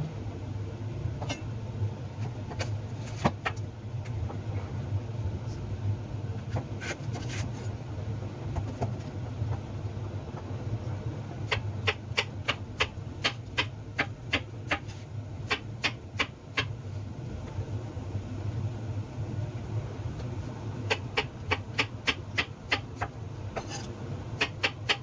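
Kitchen knife chopping on a cutting board in quick, even strokes, about three a second, in two runs: one from about halfway in, and another near the end. A steady low hum sits under it throughout.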